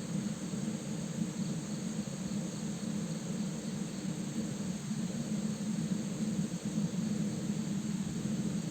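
Steady rush of a waterfall and river, an even noise with a deep low hum.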